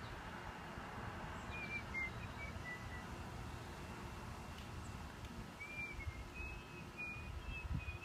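Short, thin whistled bird notes in two runs, a handful in the second and third seconds and another string in the last few seconds, over a low rumble.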